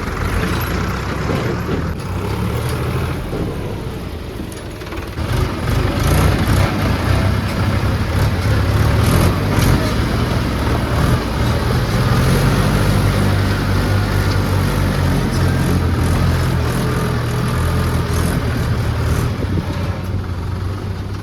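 Heavy diesel tractor engine running under load, its low note shifting up and down as it works, with a brief lull about four seconds in.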